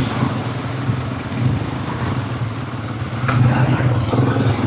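Quad bike engine running steadily under way, a low even hum, with one short knock a little past the middle.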